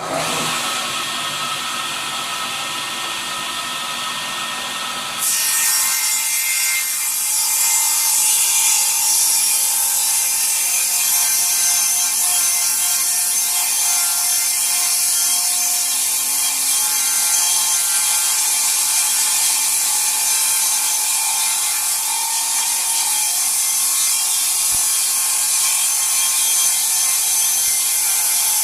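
ELU electric saw running, then cutting into a hardwood offcut about five seconds in, getting louder and staying steady while the cut goes on.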